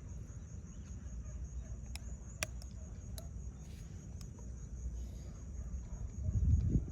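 Steady high-pitched insect chirring over a low rumble, with a few sharp clicks about two to three seconds in and a louder low swell near the end.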